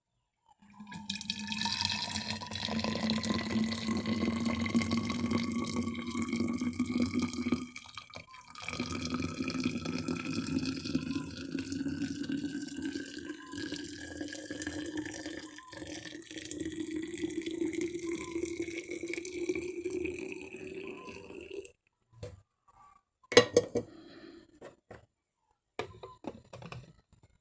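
Water pouring into a container, its pitch rising steadily as the container fills. It breaks off briefly about eight seconds in and stops abruptly about 22 seconds in, followed by a few sharp knocks.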